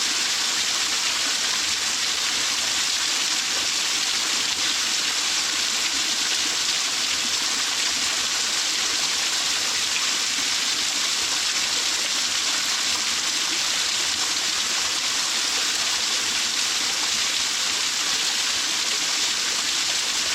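Waterfall pouring and splashing into its pool: a steady, even rush of water with a bright hiss and no let-up.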